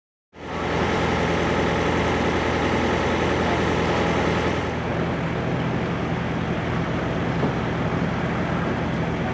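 M1A1 Abrams tank's gas-turbine engine running steadily, with a faint high whine over it that drops away about five seconds in.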